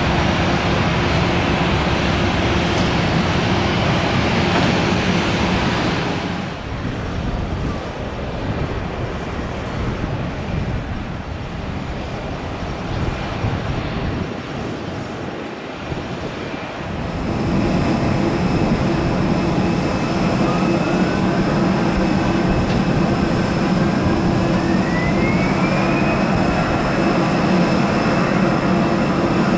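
Airbus A320 jet engines running, a loud continuous rush of noise. After about seventeen seconds a steady whine comes through, and one whine tone climbs in pitch a few seconds later as the engines spool up.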